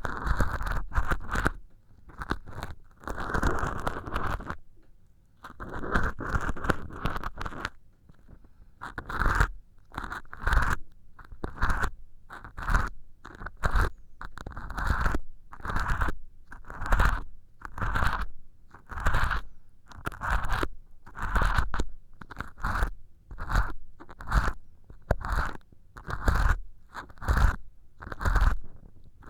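Ear pick scraping inside an ear hole made of acrylic dish-scrubber sponge, a rough crunchy scratching. It is nearly continuous for the first few seconds, then comes in short strokes about once a second.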